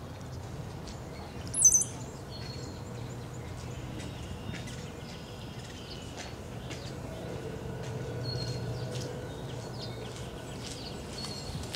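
Wild songbirds calling: one loud, sharp, very high chirp about a second and a half in, then scattered short high chirps, over a low steady background rumble.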